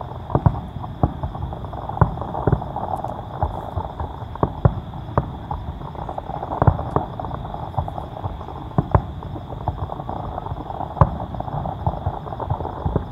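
Aerial fireworks shells bursting: an irregular run of booms and cracks, a couple or more a second.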